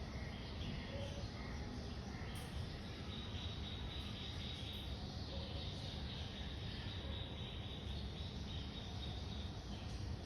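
Outdoor nature ambience: a steady low wind noise, with insects chirring in a steady high band from about two seconds in until near the end, and a few faint bird calls.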